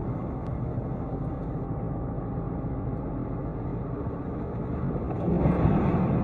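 Steady vehicle and road noise from a moving vehicle, growing louder about five seconds in.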